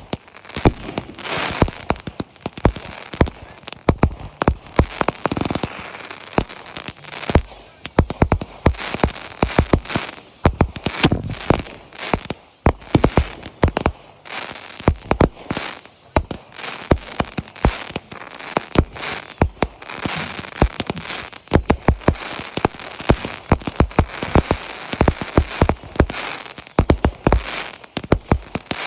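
Fireworks display: a rapid, continuous run of firework bursts and crackling. From about seven seconds in, a steady stream of falling whistles plays over the bangs.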